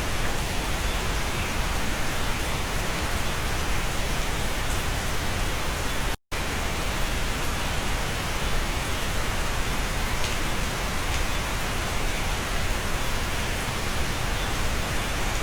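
Steady, dense rain, heard from inside a cabin. The sound cuts out completely for a split second about six seconds in, then resumes unchanged.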